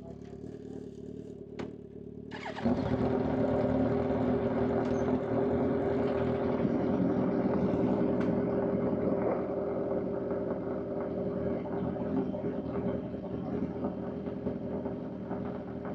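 Inline-four sport motorcycle engine on the highway: quiet and low for the first two seconds or so, then the throttle opens about two and a half seconds in and the engine runs loud and steady at high revs, with wind rushing over the bike.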